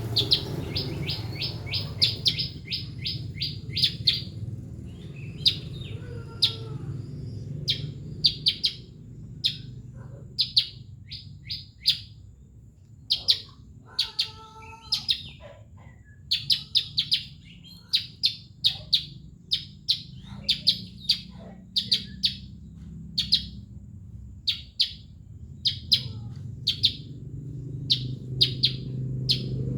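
A small songbird called the bayeman chirping: quick trains of short, high chirps, a few seconds apart, over a steady low hum.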